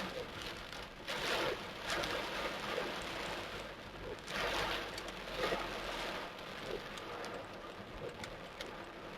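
Torrential rain pouring down, a steady hiss that swells louder in waves about a second in and again around the middle, with scattered sharp drips and taps.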